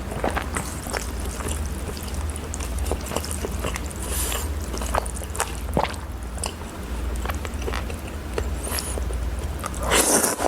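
Close-miked eating: chewing with many small wet mouth clicks, and a louder noisy burst near the end.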